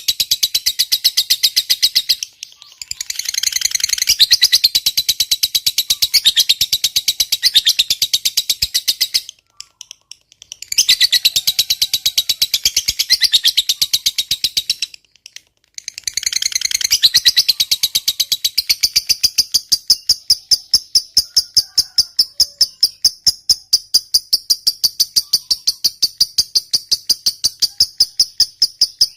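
Lovebird chattering in a long, rapid, high-pitched trill (the 'ngekek panjang' prized in fighter lovebirds), broken by brief pauses about 2, 9 and 15 seconds in. Later it settles into a steady, evenly pulsed run of notes.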